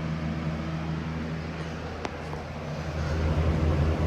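Aerospeed DX100 box fan running: a steady rush of air over a low motor hum, with a single click about two seconds in. The hum grows louder about three seconds in.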